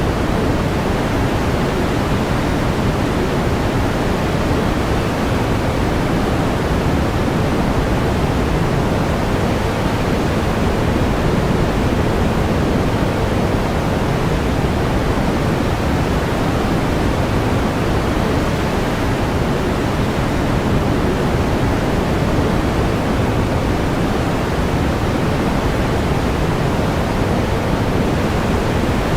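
Steady pink noise: an even, unchanging hiss, strongest in the low end and rolling off toward the highs.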